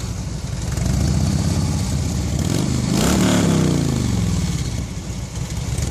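Harley-Davidson touring motorcycle's V-twin engine with new exhaust pipes, idling, then revved once near the middle and dropping back to idle.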